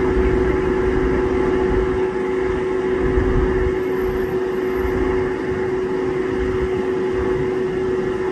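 Steady hum of an idling vehicle: a constant drone with an uneven low rumble underneath.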